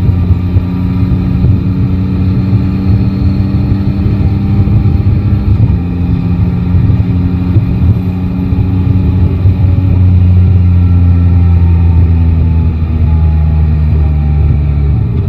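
Yamaha Tracer 9 GT motorcycle engine running under way in city traffic, holding a fairly steady pitch with a few small shifts in engine speed, over low wind and road rush.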